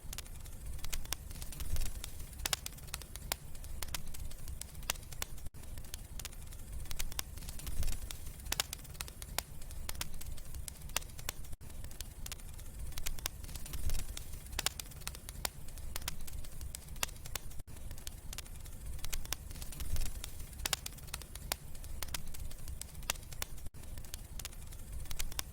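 Wood fire crackling, with frequent sharp snaps over a low rumble of the flames.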